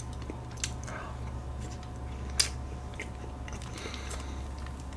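Quiet close-up mouth sounds of chewing soft cheesecake, with a metal spoon scooping and scraping through the cake. A few small clicks come through, the sharpest about halfway through, over a steady low hum.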